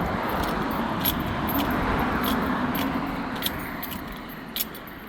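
A car passing, its noise building to a peak about two seconds in and then fading away. Light metallic clinks and jingles sound on and off throughout.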